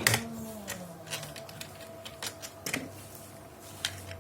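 Irregular sharp clicks and taps, about a dozen, as of hard parts or packaging being handled, over a faint steady hum.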